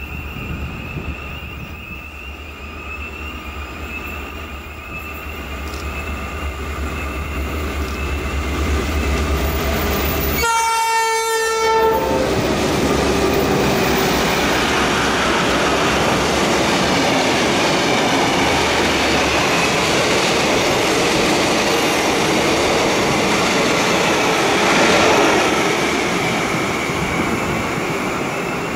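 Heritage train led by a Victorian Railways T-class diesel-electric locomotive approaching and growing louder, then sounding its horn in one blast of about a second and a half. It then passes close by, with the locomotive engines running and the carriage wheels clattering over the rails.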